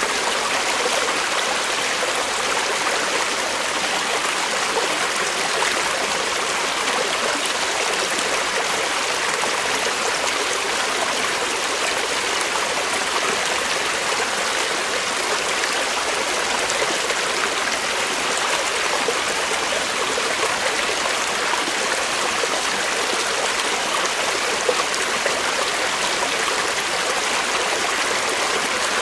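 A creek running over rocks, a steady rush and babble of flowing water with no change in level.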